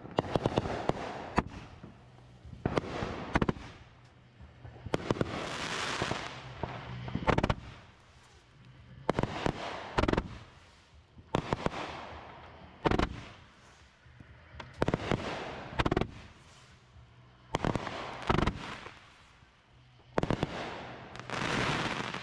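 Fireworks finale: aerial bursts going off in quick succession, a sharp bang every second or two, each followed by a fading hiss and crackle of burning sparks.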